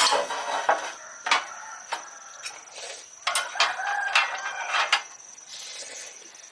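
Irregular clicks, taps and rustling, heaviest in the first second and again from about three to five seconds in, over a steady high-pitched insect trill.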